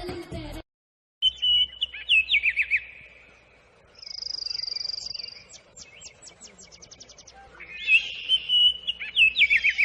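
Music cuts off about half a second in, then a bird sings: sharp high whistled notes with quick falling trills, a buzzy high trill, and a rapid run of ticks, with the whistled phrase coming back near the end.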